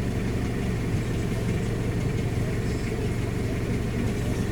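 Vehicle engine idling, a steady low rumble and hum with no change.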